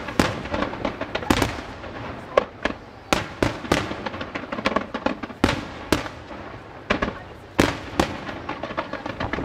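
Display fireworks going off in quick succession: sharp aerial shell bursts at uneven intervals, about one or two a second, over continuous crackle.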